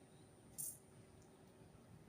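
Near silence, broken by one short, very high-pitched chirp from a small bird about half a second in.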